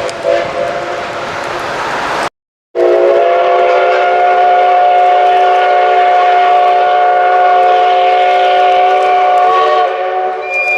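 Steam locomotive whistle of the SL Ginga's C58 239, one long blast of about seven seconds sounding several tones at once, starting abruptly about two and a half seconds in and dropping off near the end. Before it, train running noise with a fainter whistle tone.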